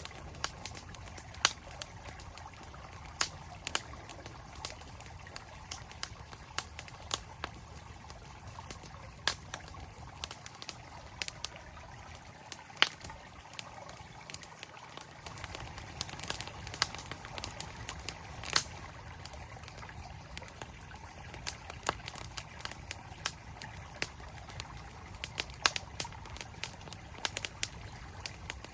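Campfire crackling, with frequent irregular sharp pops, over the steady rush of a flowing stream.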